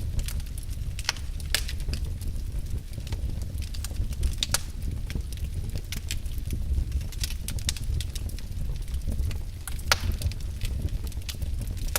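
Wood fire burning in a fireplace: logs crackling and popping at irregular moments over a low steady rumble of the flames, with one sharper pop about ten seconds in.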